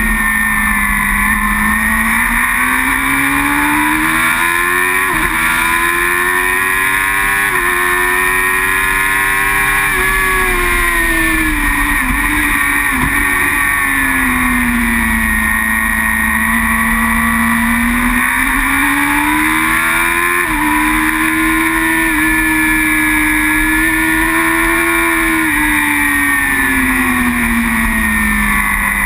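Racing superbike's engine heard onboard at race pace: revs climbing through several quick upshifts, dropping through downshifts around the middle, then climbing again, holding, and falling off near the end, over a steady low rush.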